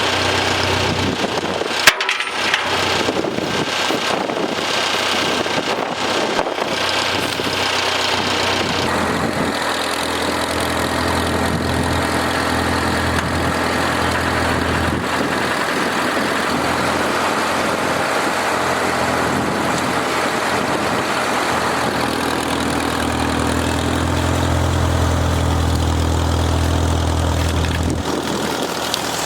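Tractor engine running, its low hum weakening and strengthening as the load or speed changes, with a single sharp knock about two seconds in.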